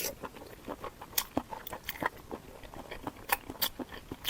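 Close-miked chewing and biting of food, with irregular crisp crunching clicks and wet mouth sounds.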